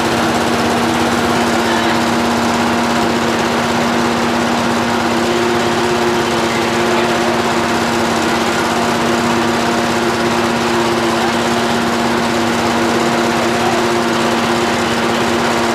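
An engine running steadily at constant high speed, with a strong unchanging hum and no let-up.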